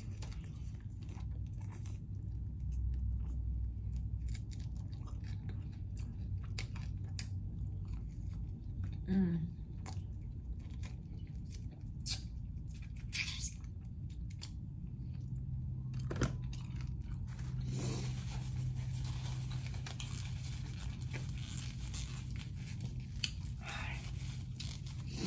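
A person eating chicken wings: chewing and biting, with many small wet mouth clicks and smacks and some finger licking.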